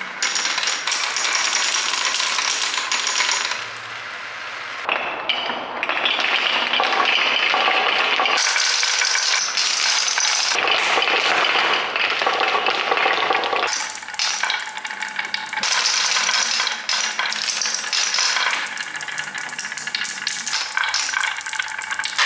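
Marbles clattering and rolling, a dense rattle of many small hard clicks. It changes abruptly several times, at about 3.5, 5, 8.5, 10.5, 13.5 and 15.5 seconds in.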